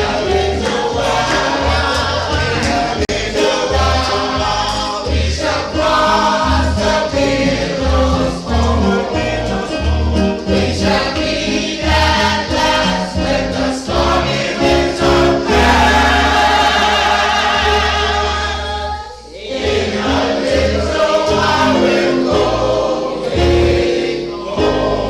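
Choir singing a gospel hymn over instrumental accompaniment with a prominent bass line, with a short pause about nineteen seconds in.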